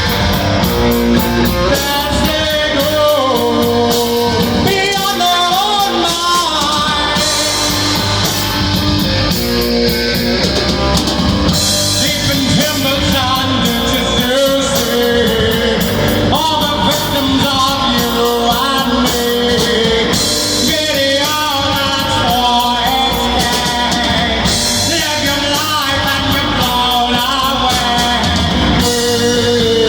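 Rock band playing a song, with a singing voice over guitar and drums.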